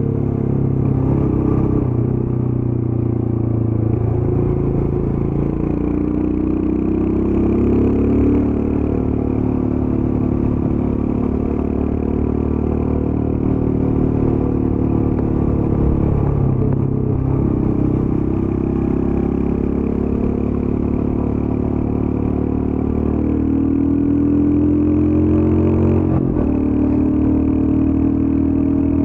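Royal Enfield Scram 411's air-cooled single-cylinder engine running under way through its stock exhaust. The engine note drifts up and down with the throttle, dips briefly about halfway, and breaks off for a moment near the end before climbing again.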